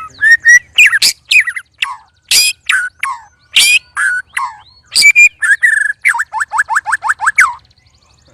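White-rumped shamas (murai batu) singing loudly and excitedly as they are set against rival birds: a jumble of clear whistles, harsh squawking notes and downward-sliding calls, ending in a quick run of about eight falling notes.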